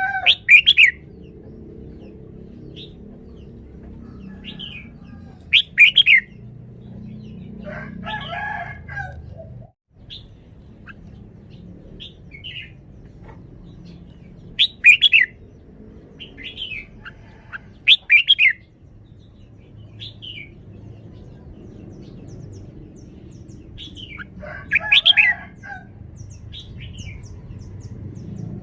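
Red-whiskered bulbul singing: short, bright, loud song phrases repeated every few seconds, with softer chirps in between.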